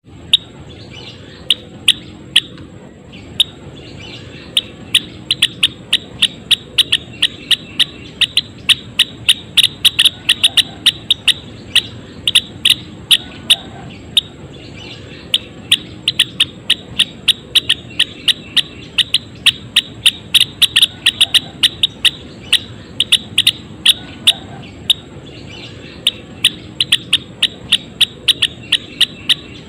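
Gelatik wingko song: rapid runs of short, sharp chirps, several a second, broken by brief pauses.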